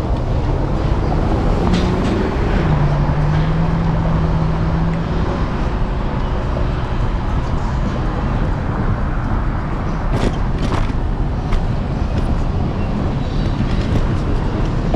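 Street traffic and rolling wind noise from a moving electric scooter. A low steady hum lasts the first five seconds or so, stepping up in pitch about two and a half seconds in, and a few sharp clicks come around ten seconds in.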